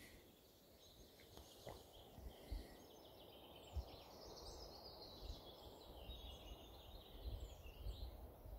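Faint songs of several small birds, a busy mix of chirps and trills, over a quiet outdoor background. Low bumps of handling noise on the microphone come now and then, the sharpest about two and a half and four seconds in.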